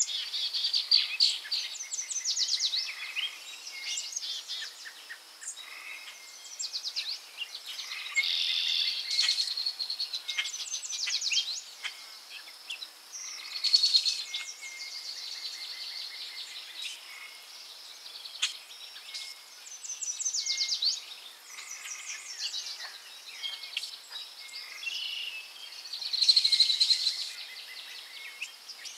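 Forest birds singing: a chorus of chirps and fast trilled song phrases coming every second or two, over a steady high insect-like hum.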